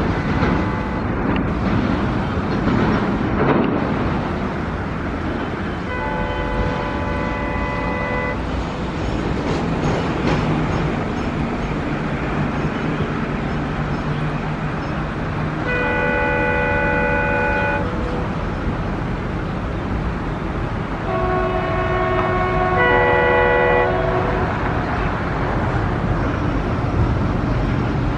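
Train running along the line with a steady rumble, while multi-note locomotive horns sound three times: a two-second chord about six seconds in, another around sixteen seconds, and near the end two different horn chords overlapping for about three seconds.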